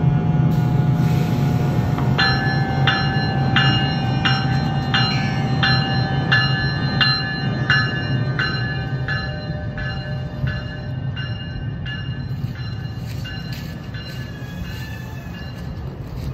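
NJ Transit commuter train rolling out past a road crossing: a steady low rumble and hum that slowly fades as the cars move off. From about two seconds in, the crossing bell rings at about one and a half strikes a second, fainter near the end.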